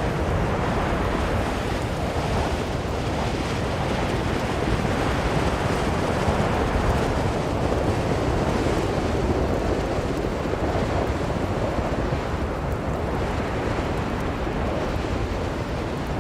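Strong blizzard wind blowing, a dense, steady rushing noise that swells a little in the middle.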